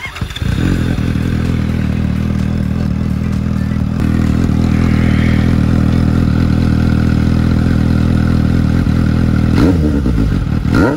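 Suzuki GSX-S750 inline-four with an aftermarket MIVV titanium slip-on exhaust starting up and settling into a steady idle, then two quick blips of the throttle near the end.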